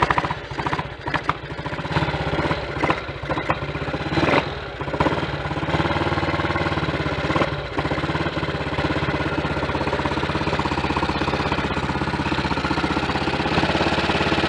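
Triumph Tiger Cub's 199 cc single-cylinder four-stroke engine catching on a cold start with the choke on. It runs unevenly at first, rising and falling for several seconds, then settles to a steady idle about eight seconds in.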